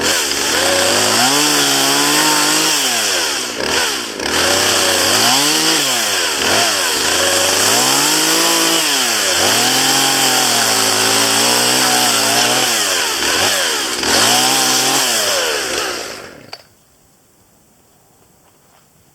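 Chainsaw running hard while cutting up downed branches, its engine pitch dropping as it bites into the wood and rising again as it comes free, several times over. The saw cuts off suddenly near the end.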